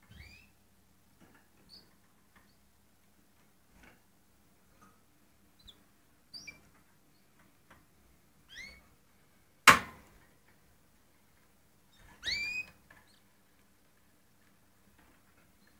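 Canaries giving short, scattered chirps with long gaps between them, and one loud sharp click a little past the middle.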